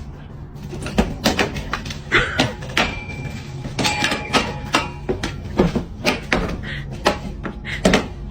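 Irregular knocks and thuds in a room, more than a dozen at uneven intervals, over a low steady hum.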